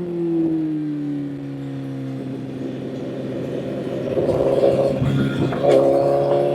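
Honda CBR1000 motorcycle's inline-four engine under way. The revs fall over the first two seconds, then it pulls harder from about four seconds in. Near the end there is a gear change, after which the revs climb again.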